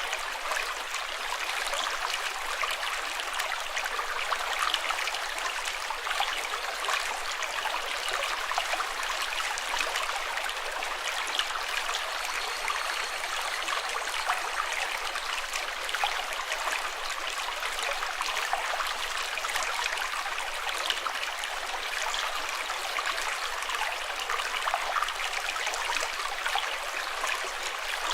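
Flowing water, running steadily and evenly with a fine splashing texture.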